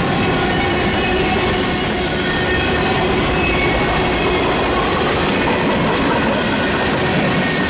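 Cars of a mixed freight train rolling past at close range: a steady, loud rumble of steel wheels on rail, with thin high wheel squeals that come and go.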